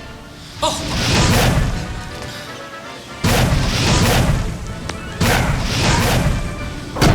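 Booming crash sound effects over background music: three long swells about two seconds apart, then a sharp hit near the end.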